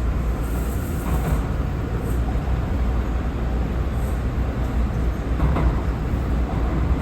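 R179 subway car running between stations, heard from inside: a steady low rumble of the car and its wheels on the track.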